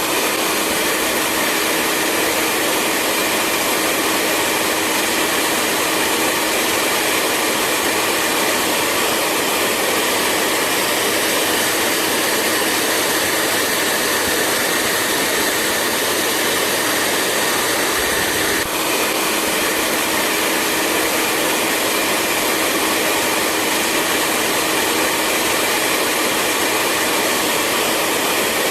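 Hair dryer running steadily: a continuous even rush of blown air over a constant low motor hum, with a brief slight dip in level about two-thirds of the way through.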